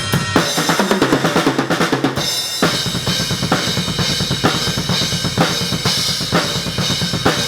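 Rock band playing through a song in rehearsal, with the drum kit out in front: bass drum, snare and cymbals keeping a steady beat under sustained chords.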